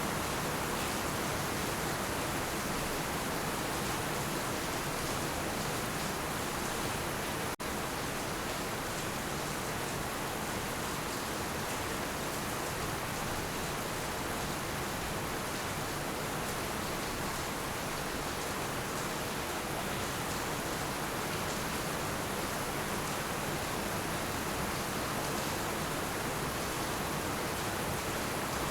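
Heavy rain falling in a steady, even hiss with no thunder, broken by a split-second dropout about seven seconds in.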